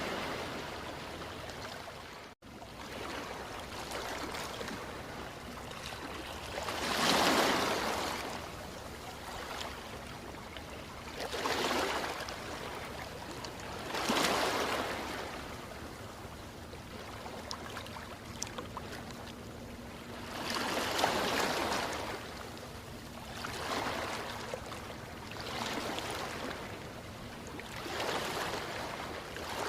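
Ocean waves washing ashore, one surge of surf after another every few seconds over a steady rush of water. The sound cuts out for an instant about two seconds in.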